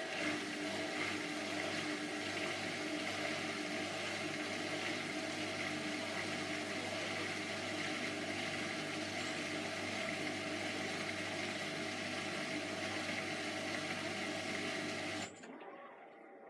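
Hotpoint HE8L493 washing machine running steadily, a motor hum with a hiss, which cuts off suddenly about fifteen seconds in.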